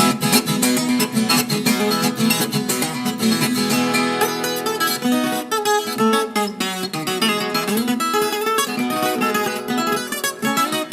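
Background music of fast-strummed and picked acoustic guitar.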